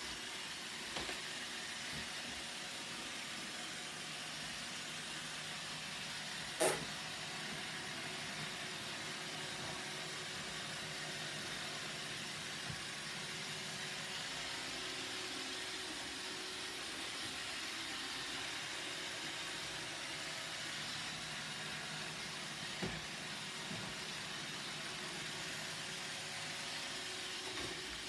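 Roomba robot vacuum running: a steady whirring hiss. A sharp knock comes about six and a half seconds in, and a fainter one near the end.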